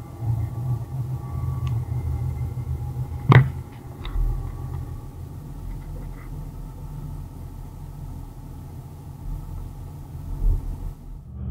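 Low, steady running rumble heard inside a diesel regional train travelling along the line. There is one sharp knock about three seconds in, and a few fainter ticks.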